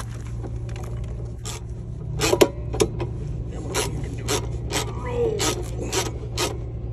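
Hand wrench working a bolt on a motorcycle's footpeg and shift-lever mount. Each stroke gives a short metallic rasp or click: a loud cluster about two seconds in, then about two strokes a second, over a steady low hum.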